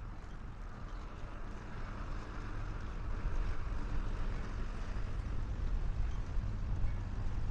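Low, steady rumble of a large ship's engines working in the ice-covered river, growing louder about three seconds in, with wind noise on the microphone.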